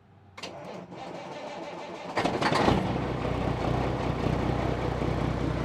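Peterbilt semi-truck's diesel engine being started: the starter cranks for about two seconds, the engine catches with a loud surge, then settles into a steady idle.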